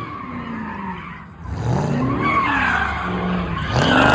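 Car engine revving up and down repeatedly, with tyres squealing and skidding on the pavement; a louder rising rev comes near the end.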